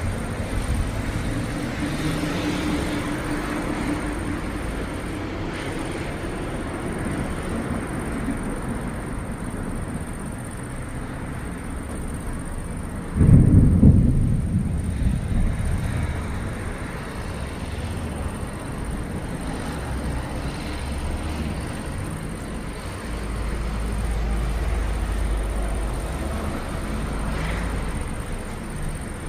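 Thunder rumbling, with one sudden loud clap about halfway through that fades away over a few seconds.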